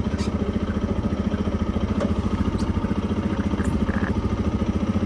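A small vehicle's engine running steadily with a fast, even throb, with a few faint clicks over it.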